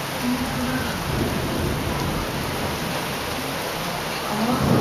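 Heavy rain pouring down in a thunderstorm, a steady dense hiss. Near the end a roll of thunder starts to swell.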